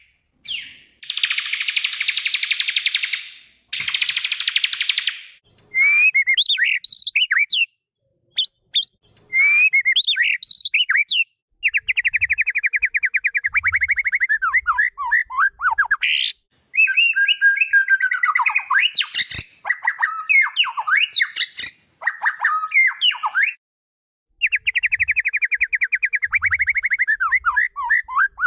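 White-rumped shama (murai batu) song: bursts of very rapid buzzy trills alternate with whistled phrases that slide up and down in pitch, separated by short, sudden silences.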